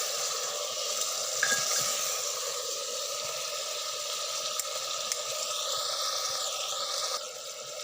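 Chicken frying in hot oil with ginger-garlic-chili paste: a steady sizzle, with a light knock about one and a half seconds in. The sizzle drops in level shortly before the end.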